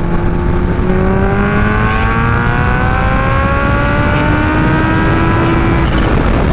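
Kawasaki Ninja H2's supercharged inline-four through a full-titanium Vandemon exhaust, accelerating with the pitch climbing steadily for about six seconds, then dropping off near the end. Heavy wind rumble on the microphone underneath.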